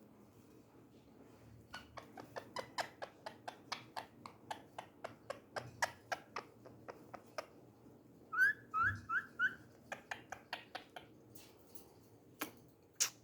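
Pet parrot chirping: a quick run of short clicking chirps, then four quick whistled notes about two-thirds of the way through, then a few louder sharp clicks near the end.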